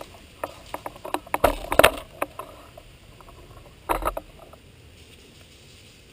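A quick run of sharp clicks and knocks mixed with rustling, loudest about a second and a half in, then one more short burst about four seconds in.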